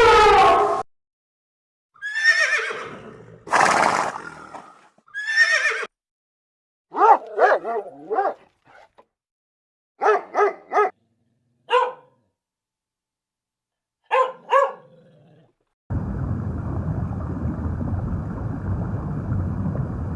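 Horses whinnying: three long, shaky calls, then several shorter clipped calls. From about sixteen seconds in, a steady rushing noise takes over.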